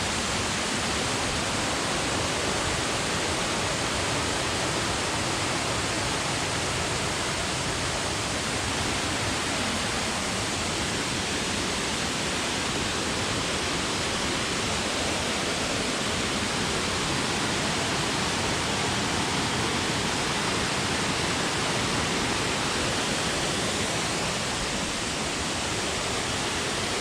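Waterfall: falling water rushing with a steady, even hiss that does not change.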